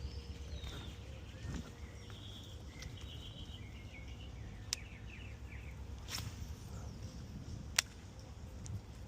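Outdoor ambience: a steady low rumble with faint, scattered bird chirps and two sharp clicks, one about halfway through and one near the end.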